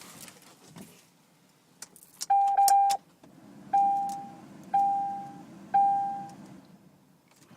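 Keys jangling and clicking in the ignition of a 2007 Chevrolet 2500HD pickup, then its warning chime dinging: one stuttered ding, then three more about a second apart, each fading. A low steady hum runs under the chimes once the key is switched on, before the engine is cranked.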